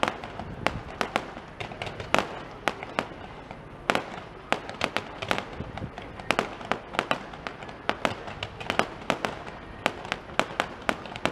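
Fireworks display going off: an irregular string of sharp bangs, about two or three a second, over a continuous crackle.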